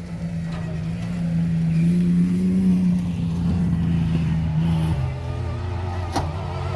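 A prerunner race truck's engine held at high revs under load, its note rising slightly before dropping abruptly about five seconds in. A single sharp click sounds about a second later.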